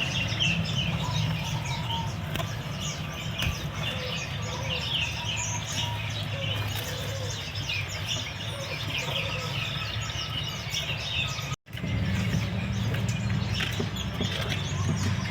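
Many caged songbirds chirping and twittering over one another in short rapid notes, over a steady low hum. The sound drops out for an instant about two-thirds of the way through.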